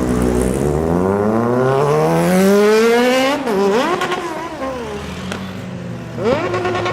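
Sport motorcycle engine revving: the pitch climbs steadily for about three seconds, then falls away, followed by two quick throttle blips.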